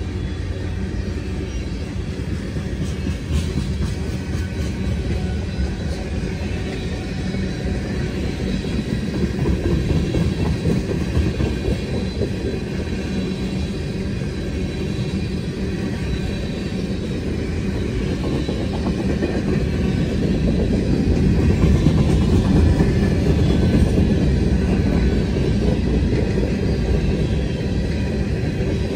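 Freight train rolling past: a steady rumble of steel wheels on the rails that grows louder about twenty seconds in.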